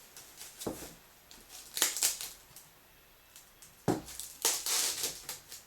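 Handling noise of dry toy parts being threaded onto a leather lace: a few sharp clicks and a crackly rustle of dried palm leaf and corn.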